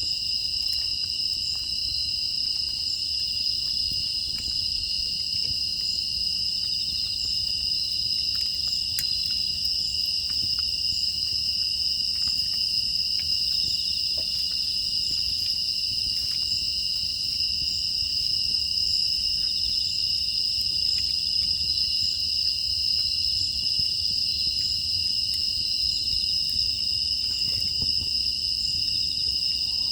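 Steady chorus of crickets and other grass insects trilling without a break, with faint scattered crackles from a wood fire burning in an agungi firebox.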